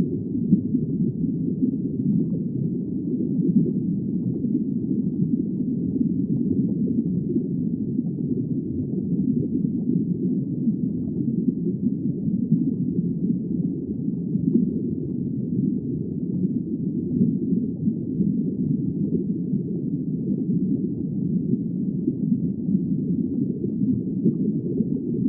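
Steady, muffled low rumble of underwater ambience, an even wash of deep noise with no calls or distinct events.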